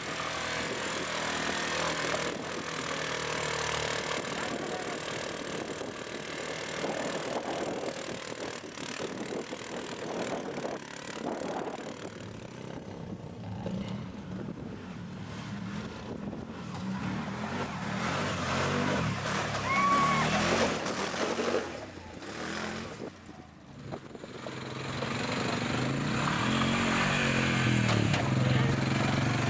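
A motor vehicle's engine running as it drives, with its level dipping briefly a little after the middle.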